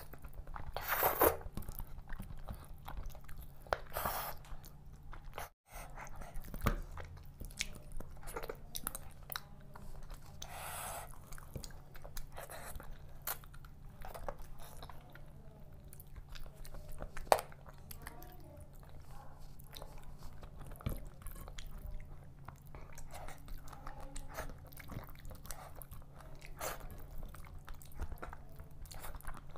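Close-up eating sounds of fish head curry eaten by hand: wet chewing and biting with repeated crunches of fish bone, over a steady low hum.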